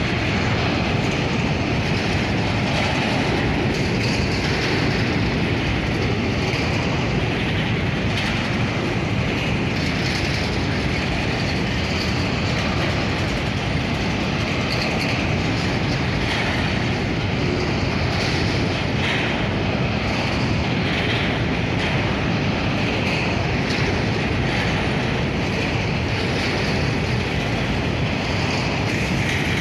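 Freight train wagons rolling past at steady speed: a continuous rumble of steel wheels on rail with faint clacking over the rail joints and some wheel squeal.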